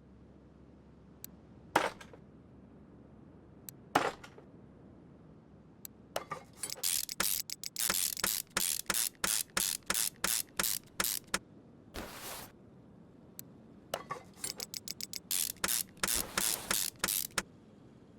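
Ratchet wrench being worked on an engine in quick strokes, each stroke a short burst of rasping clicks, two to three a second in two long runs, with a longer hiss in between.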